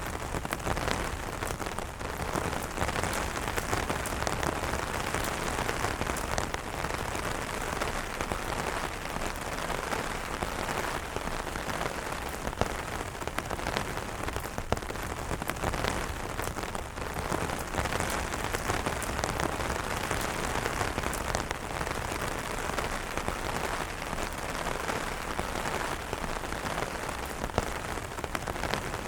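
Steady rain falling on umbrellas, a constant hiss of rain with many individual drops hitting the fabric.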